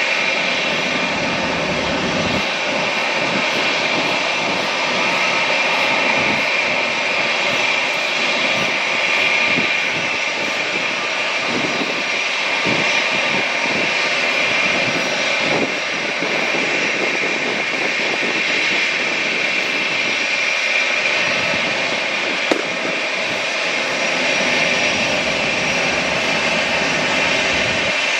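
Jet airliner engines running steadily: a continuous loud rush with a high whine held at one pitch.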